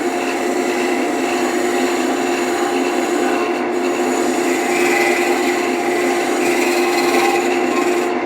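Wood lathe running with a steady motor hum while a tool or abrasive rubs continuously against the spinning wood.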